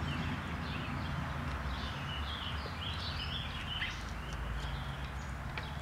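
Songbirds chirping repeatedly in short high calls over a steady low rumble, with a few faint clicks.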